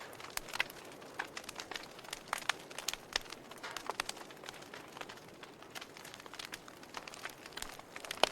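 Wood fire crackling in a fireplace: frequent irregular sharp pops and snaps over a low steady hiss.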